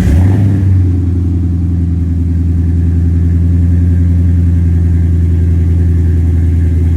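Ford 7.3 L Godzilla gasoline V8 catching on a cold start through an MPI Performance Series cat-back dual stainless exhaust. It flares up briefly as it fires, then settles into a loud, steady cold idle.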